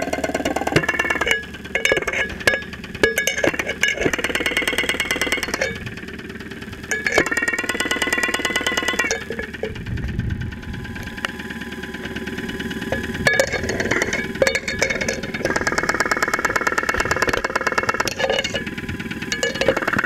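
2001 Saturn SL2's 1.9 L four-cylinder engine heard close up through a stethoscope microphone, running with a rapid ticking beat and a pitch that shifts up and down in steps as the throttle is adjusted. The engine has been run on very low oil, and the noise is taken for internal damage from it.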